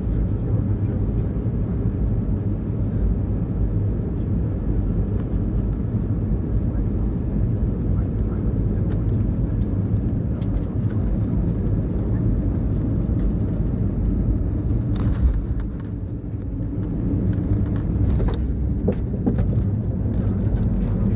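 Steady low rumble of a jet airliner's cabin during the approach to landing, engines and airflow, with a few clicks and knocks in the second half.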